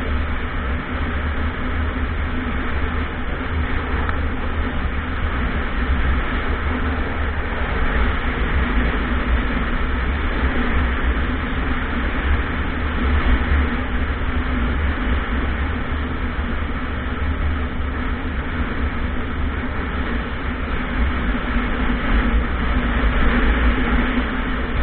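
Steady rush of wind and road noise from a moving motorcycle, with a heavy low rumble of wind buffeting the microphone.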